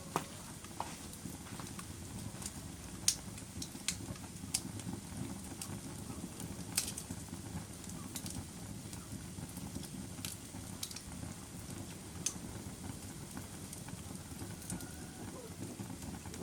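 Wood fire burning in a fireplace: a steady low rumble of flames with irregular sharp crackles and pops, a handful of them standing out loud, the strongest about three and seven seconds in.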